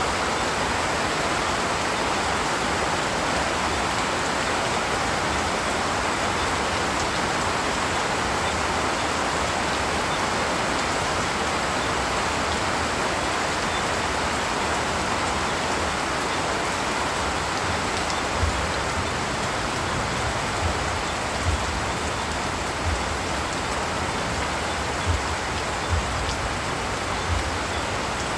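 Steady rain falling in a forest, an even continuous hiss. In the last third, short dull thumps come every second or so at irregular intervals.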